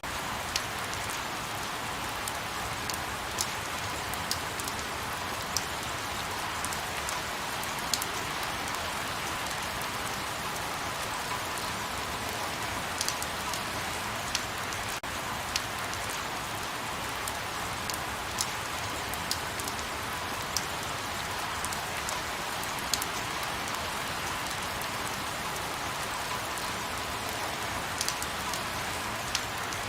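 Light rain falling steadily, with scattered sharper ticks of single drops landing close by.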